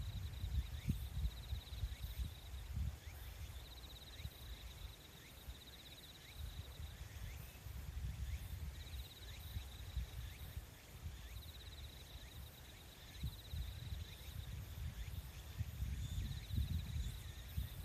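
Nature soundscape: a high, rapid trill repeating in phrases of a second or two, with faint short chirps above a low, uneven rumble.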